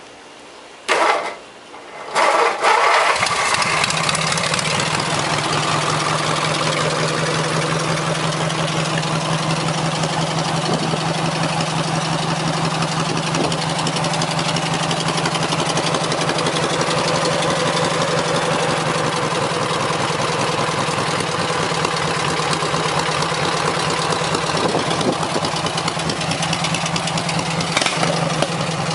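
Craftsman lawn tractor's 18 hp Briggs & Stratton twin-cylinder engine, fitted with open headers, cranked by the starter about a second in, catching just after two seconds in and then running at a steady idle.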